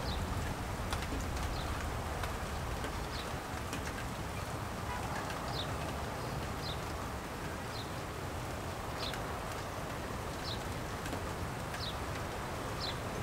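Light rain falling steadily, with a bird's short high chirp repeating every one to two seconds.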